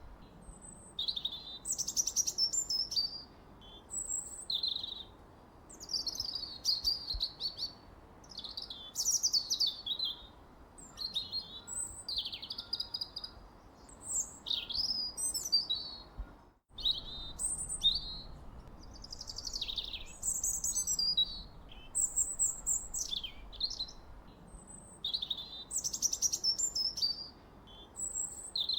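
Bird chirping and singing in short, high, rapidly rising and falling phrases, one every second or two, over a faint steady hiss. The sound cuts out for a moment a little past halfway.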